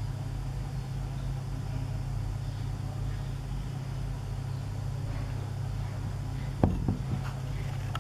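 Steady low rumble, with a quick cluster of sharp knocks between about six and a half and seven seconds in.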